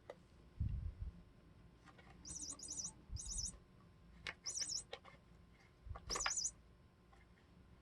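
High, bird-like chirping in four short trilled bursts, from the 'tweety bird' the kittens are pawing at in a hole, with a few soft thumps and clicks from their pawing.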